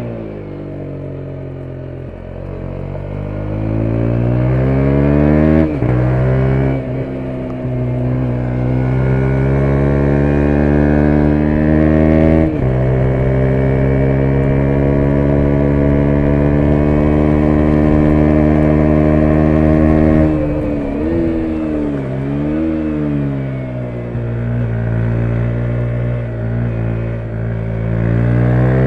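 2017 KTM 125 Duke's single-cylinder four-stroke engine accelerating hard, the revs climbing with two quick upshifts in the first half and then held high. About two-thirds through the revs drop and waver through downshifts before climbing again.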